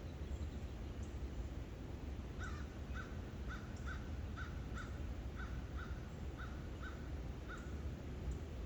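A bird calling a quick run of about a dozen short calls, about two a second, starting a few seconds in and stopping near the end, over faint high chirps from other birds and a steady low rumble.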